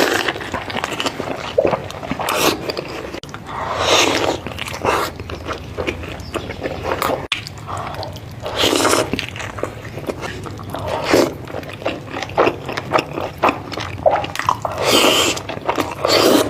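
Close-up eating sounds as someone bites and chews spicy noodles and large momos. Wet mouth noises rise in a louder burst every second or few.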